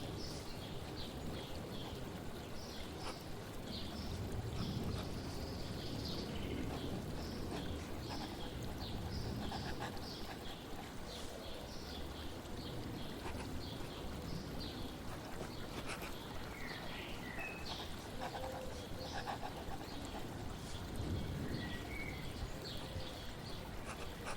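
Birds chirping in many short, high calls, with a few gliding notes, over a steady rush of flowing water.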